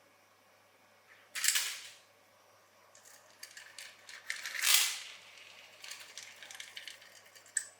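Handling noises from a small object being worked on by hand: a few sharp clicks, two louder scraping rustles, and then a run of small clicks near the end.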